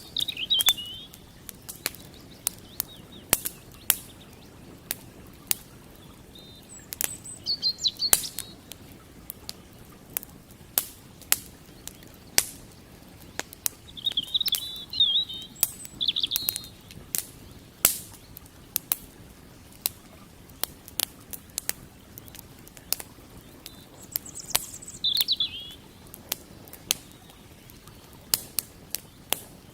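Wood campfire crackling with frequent sharp, irregular pops, while a small bird chirps in short twittering bursts about four times.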